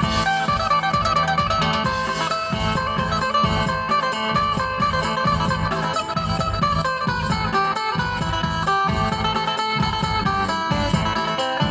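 Phin (Isan lute) music: a plucked-string melody over a steady beat.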